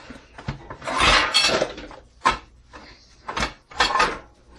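Pots and pans clattering and clanking in a kitchen cabinet as a frying pan is pulled out from the back: a long burst of metal clatter about a second in, a sharp clank a moment later, then two more clattering bursts near the end.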